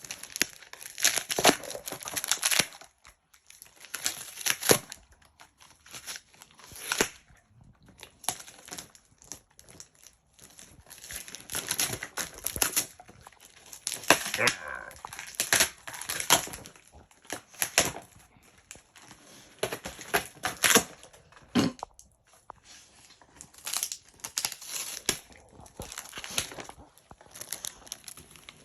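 A pit bull ripping packing tape and cardboard off a parcel with its teeth, in irregular bursts of tearing and crinkling.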